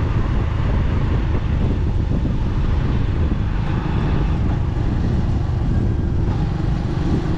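Wind rumbling over the microphone of a moving motorbike, with the bike's engine and road noise underneath, steady throughout.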